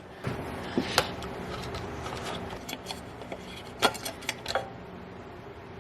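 Handling noise from a gas chainsaw with its mill attachment: a few scattered light clicks and knocks, the sharpest about a second in and a cluster around four seconds in, over a faint steady hum.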